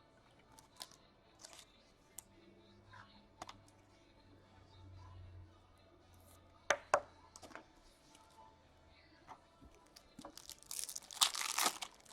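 Hockey card pack wrapper being torn open and crinkled, a loud rustling rip near the end. Before it come scattered small taps and clicks of cards and packs being handled, with two sharp ticks about halfway through.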